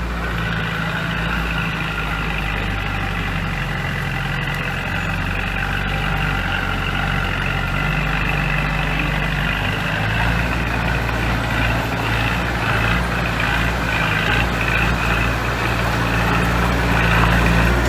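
Heavy diesel engine of construction machinery running steadily, a low continuous engine note that grows slightly louder about ten seconds in.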